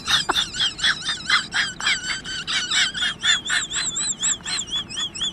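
A rapid, even series of high-pitched animal chirps, about five a second, the later ones with a wavering, trilling pitch.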